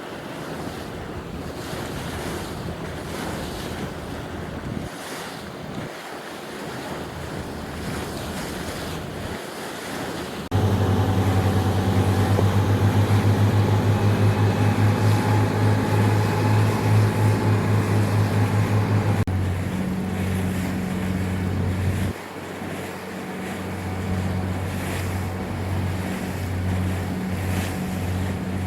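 Wind buffeting the microphone over open water. About ten seconds in, a ship's engine sets in close by with a loud, low, steady hum that pulses slightly, shifting abruptly a couple of times and carrying on more faintly near the end.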